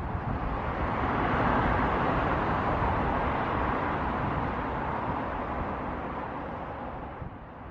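Jet airliner's engines passing by: a steady rushing roar that swells a little in the first few seconds and then slowly fades away.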